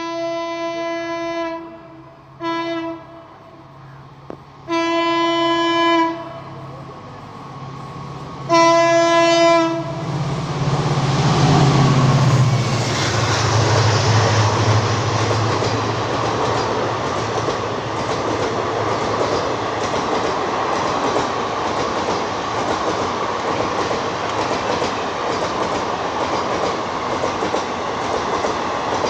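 Indian Railways WDP-4D diesel locomotive (EMD two-stroke V16) sounding its horn four times, a long blast, a short one, then two longer ones, before running past at speed, the low rumble of its engine dropping in pitch as it goes by. Then the passenger coaches rush past with a steady clickety-clack of wheels over the rail joints.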